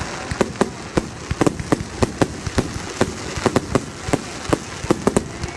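Fireworks going off in a rapid, irregular string of bangs, several a second, with a crackling haze between them.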